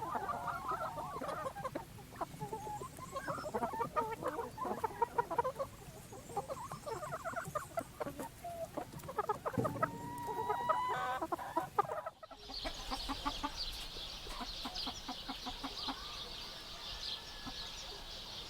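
A group of chickens clucking in short, overlapping calls. About twelve seconds in the sound cuts abruptly to a steady high-pitched chirring with soft low clucks under it.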